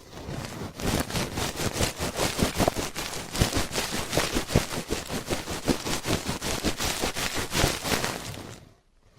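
Ear-cleaning ASMR scratching close on the microphone: rapid crackling scrapes and rubs that fade out near the end.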